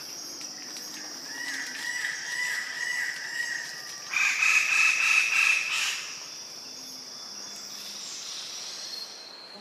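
Birds calling: a warbling call from about one to four seconds in, then a louder, longer call from about four to six seconds in, over a steady high-pitched hum.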